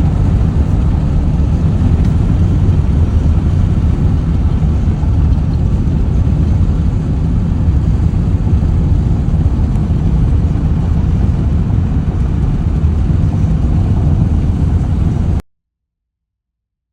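Vehicle driving noise: a loud, steady low rumble of engine and road noise that cuts off abruptly about fifteen seconds in.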